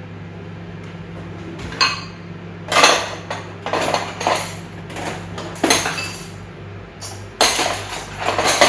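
Metal spoons clattering and clinking against each other and against dishes as they are set out, in several separate bursts. The last group is the loudest.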